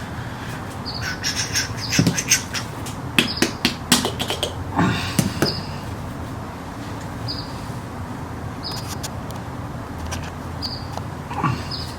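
A cluster of sharp clicks and knocks, the loudest part, from about a second in to about five and a half seconds in, from hands working with the fork parts and oil bottle. Behind it, a bird gives a short, falling high chirp about every second or so.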